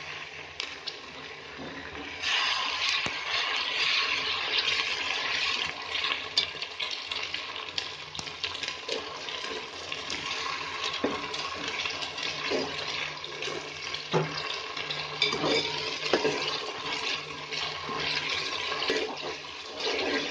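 Onions and ginger-garlic paste sizzling hard in hot mustard oil in an aluminium pot, being fried to cook off the paste's raw taste. The sizzle grows louder about two seconds in, with occasional knocks of a slotted spoon stirring.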